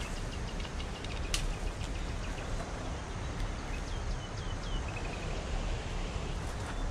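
Small birds calling outdoors: a quick run of short, falling whistled notes a little past the middle, with scattered short notes near the start. Under it runs a steady low rumble, and a single sharp click sounds about a second and a half in.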